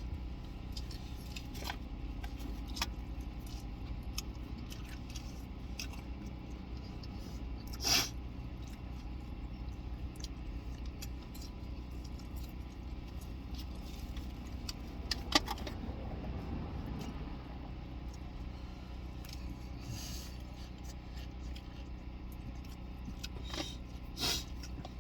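Steady low hum inside a car, with scattered light clicks and rustles of eating from takeout containers; a sharper click comes about 15 seconds in.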